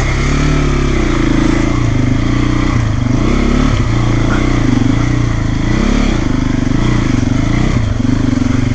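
Single-cylinder trail motorcycle engine revving up and down over and over, the pitch rising and falling about once a second, as it is ridden slowly through deep mud and ruts.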